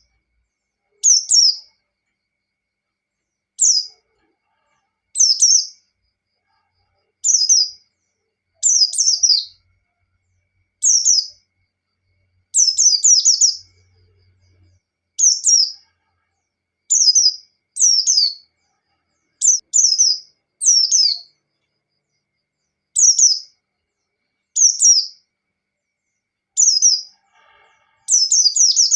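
White-eye (pleci) giving its 'ngalas' call: short, high chirping phrases of about half a second each, repeated every second and a half to two seconds, with silence between.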